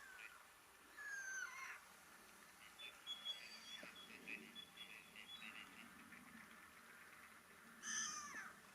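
Faint birdsong: small birds giving short whistled notes and chirps, with a falling whistle about a second in, a run of quick repeated notes in the middle, and a louder burst of calls near the end.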